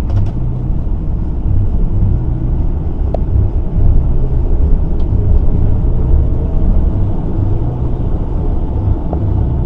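Scania P360 truck's diesel engine running with a steady low rumble.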